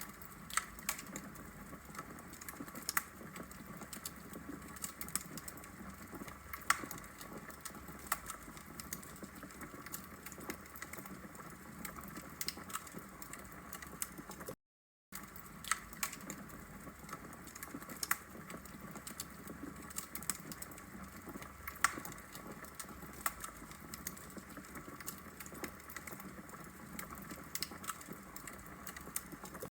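Wood logs burning in a brick fireplace, crackling and popping in a steady irregular stream of sharp snaps over a low hiss. The sound drops out to silence for about half a second midway through.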